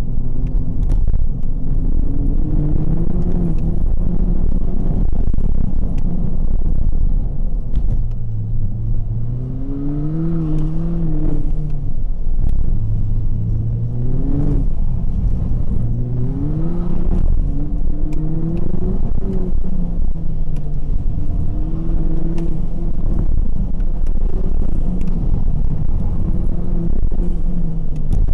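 Ford Fiesta ST's turbocharged 1.6-litre four-cylinder, heard from inside the cabin, revving up and easing off again and again as the car is driven hard through an autocross course. A heavy low rumble of road and tyre noise runs beneath it.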